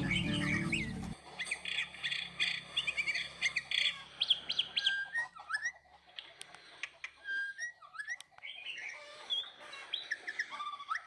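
Birds chirping: many short calls that rise and fall quickly in pitch, thinning out near the end. Background music stops about a second in.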